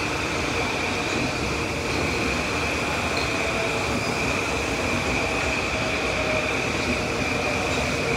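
Metro-North M8 electric multiple-unit train running past on the tracks: a steady rumble of wheels on rail with a high, even whine held throughout.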